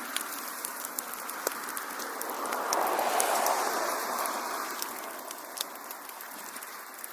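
Wood fire in a fireplace crackling: scattered sharp pops and snaps over a steady hiss of flames, which swells about three seconds in and eases off toward the end.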